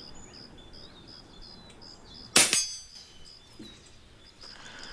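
A single air-rifle shot, the pellet striking an AR500 steel target, which rings briefly, about two and a half seconds in. Insects chirp steadily in the background, about three times a second.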